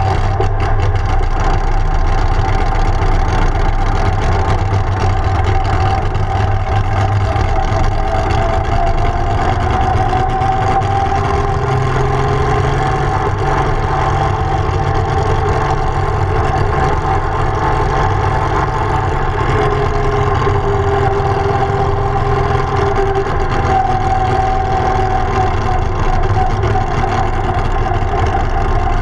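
Holden grey-motor straight-six in a dragster running at low, fairly steady revs while the car rolls slowly, heard from the cockpit.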